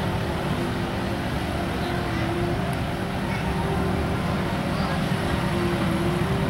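Tractor engines running steadily with a low rumble as tractors drive past in a parade.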